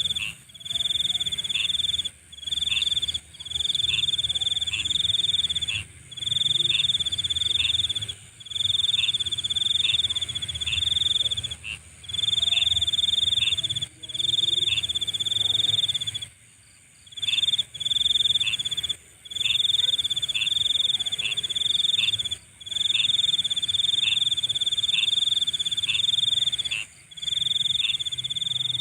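Night insects, crickets, trilling steadily in a high chorus. The chorus cuts out briefly every couple of seconds, once for about a second near the middle.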